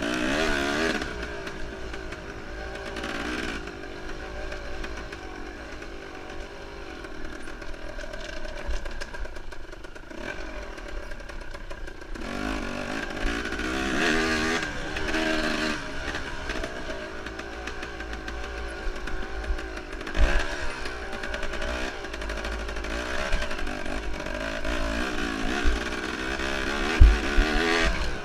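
Enduro motorcycle engine revving up and down repeatedly as the bike is ridden hard, over a steady low rumble, with a few sharp knocks, the loudest near the end.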